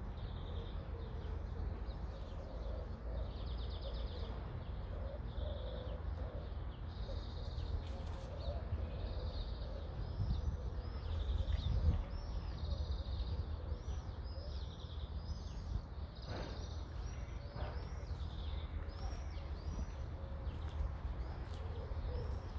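Small birds chirping over and over in the trees, short high calls coming every second or so, over a steady low rumble.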